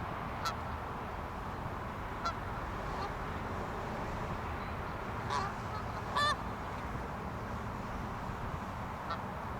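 Geese honking: about six short, scattered calls, the loudest and longest about six seconds in, over a steady low background rumble.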